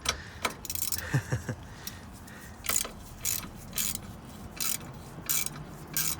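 Socket ratchet wrench clicking in short, uneven strokes while loosening a 10 mm bolt.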